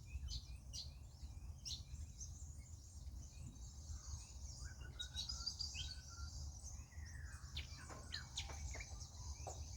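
Many small birds chirping and twittering at once, short high chirps overlapping throughout, over a steady high hiss.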